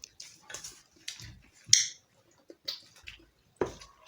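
Close-up eating sounds of roti and chicken curry: wet chewing and mouth smacks in short, irregular bursts, the loudest a sharp smack a little under two seconds in.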